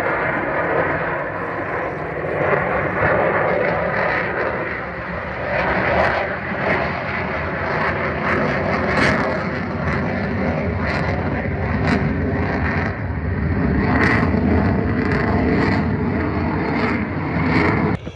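Aircraft engines running loud and steady as an aeroplane flies its display.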